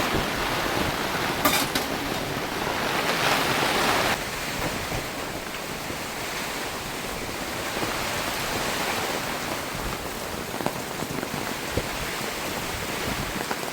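Heavy downpour in a rainstorm, falling steadily on the camp, louder for the first few seconds and then easing to a steady rush.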